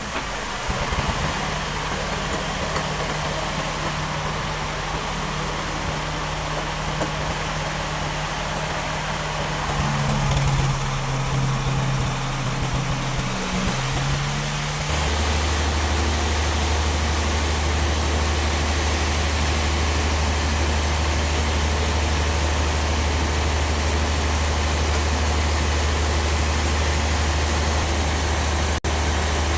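An engine running steadily, its note shifting about ten seconds in, then changing abruptly about halfway through to a deeper, louder drone. There is a brief dropout near the end.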